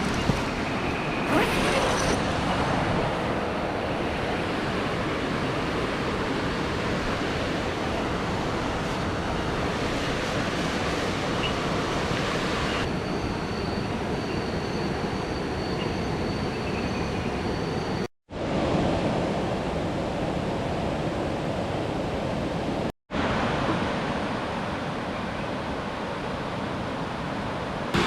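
Steady rush of falling water from a waterfall. The sound cuts out abruptly twice for a moment in the second half.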